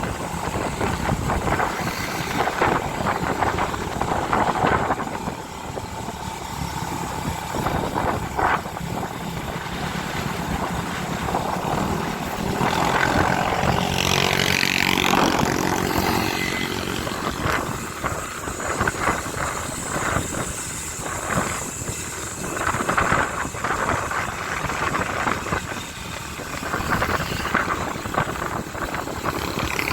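A motorcycle being ridden: the engine runs under steady wind noise rushing over the microphone, with a louder stretch about halfway through.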